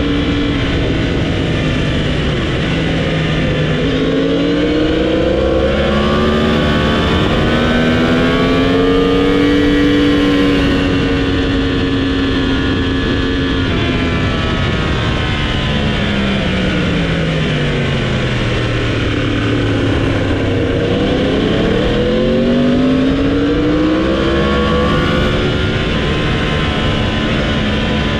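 Motorcycle engine at full speed on a race track, heard from the bike itself with wind rushing past: it revs up, holds high, then falls away through a long slowdown and climbs again.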